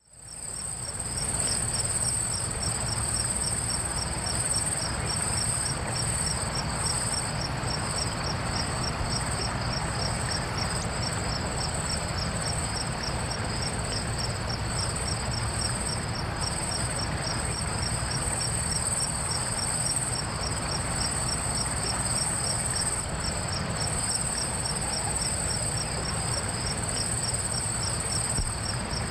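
Chorus of insects: one continuous high-pitched trill and, beneath it, evenly repeating chirps a few times a second, over a steady low background hiss. It fades in over the first second.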